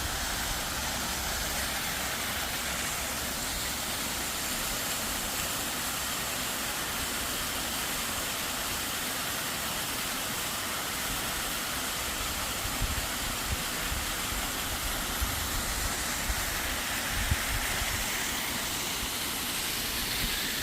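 Small waterfall: a steady rushing hiss of falling water, with gusts of wind rumbling on the microphone.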